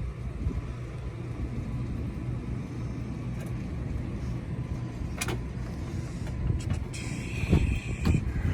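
Rooftop HVAC unit's blower fan running steadily with a low hum, now smooth on a newly installed control board after it had been cycling on and off. A single click comes about five seconds in, and a short higher hiss about a second and a half before the end.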